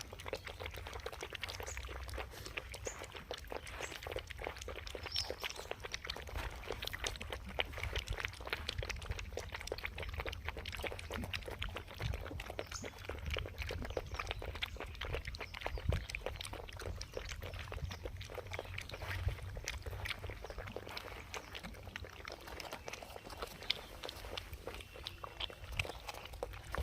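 Street puppies lapping and slurping a drink from a dish, a quick, irregular run of wet clicks that goes on throughout.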